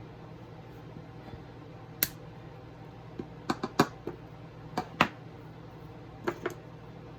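Sharp clicks of jewelry pliers and sterling silver jump rings being handled, about ten in all, mostly bunched in the middle, over a steady low hum.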